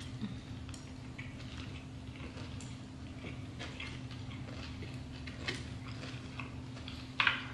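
Chewing and small mouth clicks as sushi is eaten close to the microphone, with scattered light ticks over a steady low hum. A brief louder noise comes near the end.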